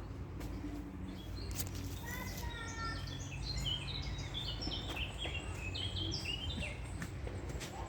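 Songbird singing rapid runs of short, high chirping notes from about two seconds in until near the end, over a steady low outdoor background noise.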